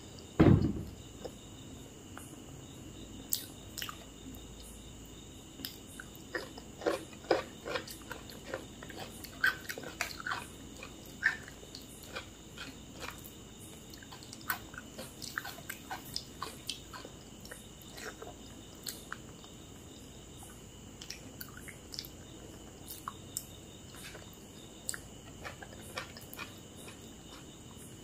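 Close-miked chewing and mouth sounds of someone eating: a scattered run of short wet clicks and smacks, with one heavier thump about half a second in.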